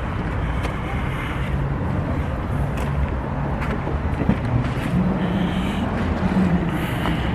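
A motor vehicle's engine running steadily amid outdoor street noise, with a low hum that grows a little stronger about five seconds in.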